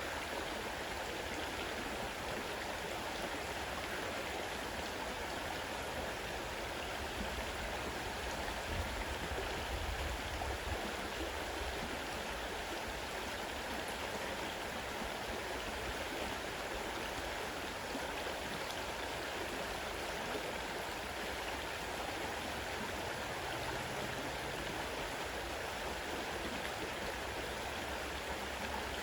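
A fast-running river rushing steadily over its bed, with a brief low rumble swelling under it about nine seconds in.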